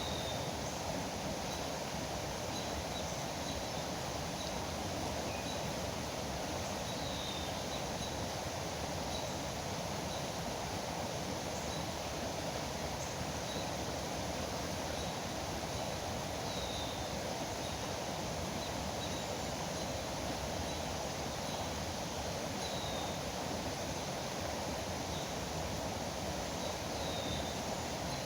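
Steady rush of flowing river water, with short high bird chirps now and then over it.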